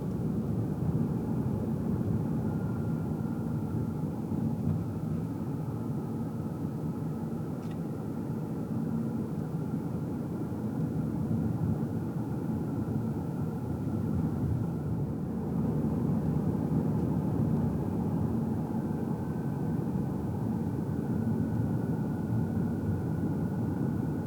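Car cabin noise while driving: a steady low rumble of tyres and engine, with a faint high whine that steps up slightly in pitch about two-thirds of the way through.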